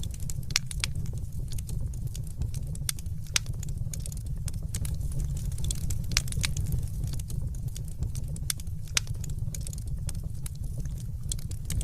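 Crackling fire: a steady low rumble of burning, with irregular sharp pops and snaps from the wood.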